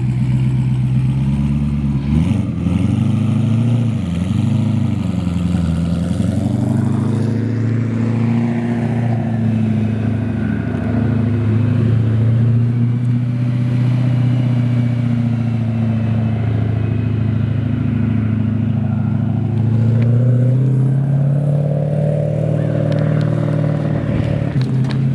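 Twin-turbo BMW S65 V8 running at a steady engine speed. Its pitch wavers down and up for a few seconds early on, then holds steady and rises around twenty seconds in.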